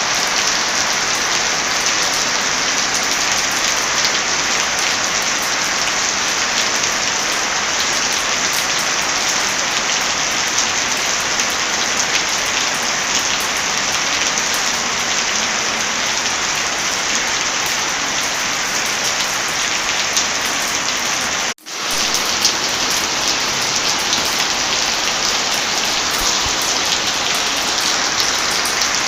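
Heavy rain falling steadily, a dense even patter. It cuts out abruptly for a split second about three-quarters of the way through, then resumes.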